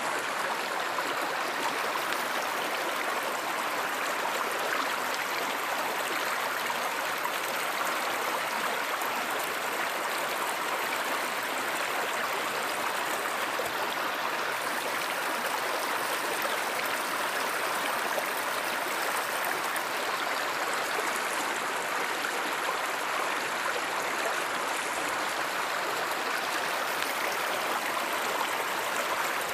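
Stream water flowing steadily: a continuous, even rush with no breaks.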